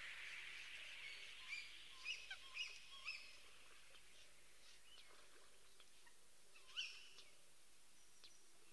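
Quiet lakeside ambience with small birds giving short high chirps: a cluster of calls about two seconds in and one more near seven seconds. A soft hiss fades out over the first couple of seconds.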